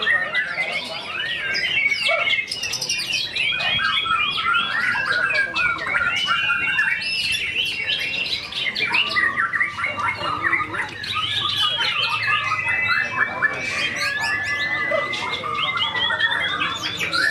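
White-rumped shama (murai batu) singing without a break: a fast, varied song of chattering notes, quick slurred whistles and a few longer held whistles, packed with mimicked fill-in phrases.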